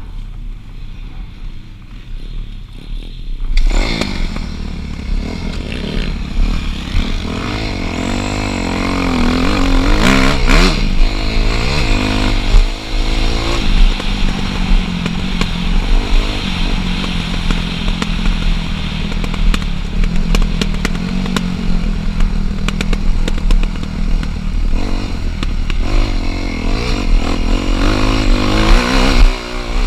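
Dirt bike engine ridden hard, its pitch rising and falling as the throttle is opened and closed. It comes in loud about four seconds in, after a quieter start.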